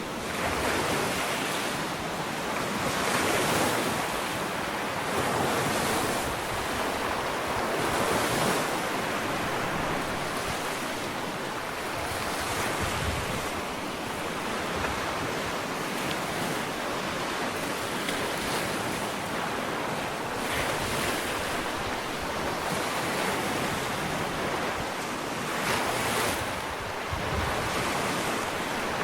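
Ocean waves washing onto a sandy beach: a continuous rush of surf that swells and eases every few seconds, with some wind.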